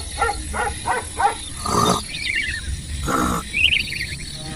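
Animal calls: a quick run of short pitched calls, then two harsh noisy calls with high falling whines between them.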